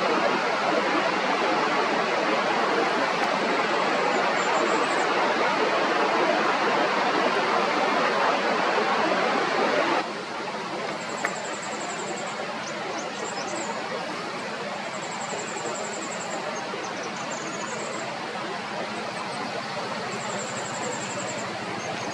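Goldcrest singing: short runs of very high, thin, rapid notes, several phrases mostly in the second half, over a steady rushing noise of running water that drops in level about ten seconds in.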